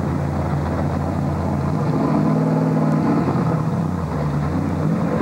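Stock car V8 engine idling with a steady low drone. Its tone changes briefly about two seconds in.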